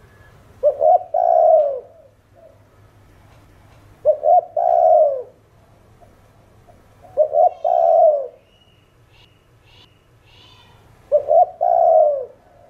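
Spotted dove cooing: four calls about three and a half seconds apart, each a couple of short clipped notes followed by a longer falling coo. A few faint high chirps from another bird come between the last two calls.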